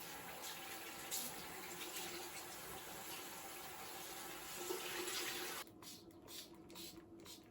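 Water running steadily from a tap into a sink, then cut off abruptly about five and a half seconds in, leaving a few faint clicks and knocks.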